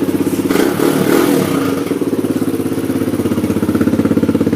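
Kawasaki KLX140 dirt bike's single-cylinder four-stroke engine running steadily at idle with a fast, even firing pulse; it is loud.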